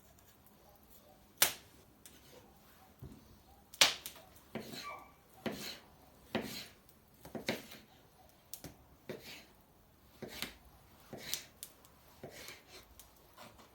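Kitchen knife slicing vegetables on a cutting board: a series of sharp knocks as the blade hits the board, roughly once a second.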